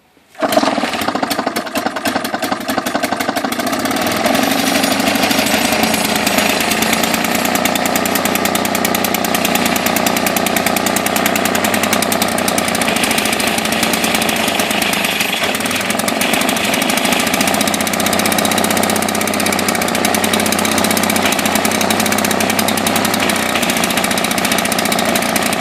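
Pre-1936 Outboard Motor Corporation inboard kicker engine, a low-RPM two-stroke, firing up about half a second in and then running. It is a little uneven for the first few seconds, then settles into a steady run.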